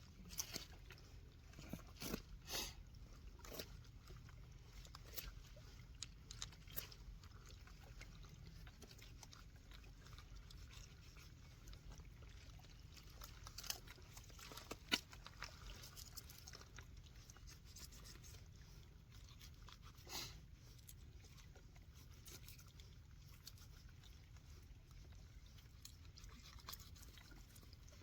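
Near silence over a low steady rumble, broken by scattered faint clicks and taps, about a dozen in all, the sharpest about halfway through.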